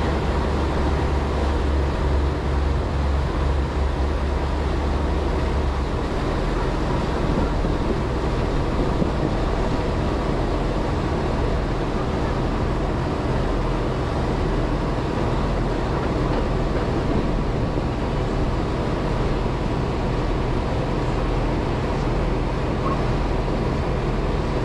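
A boat's engine runs steadily under a constant rush of wind and water noise. A strong low hum drops away about six seconds in.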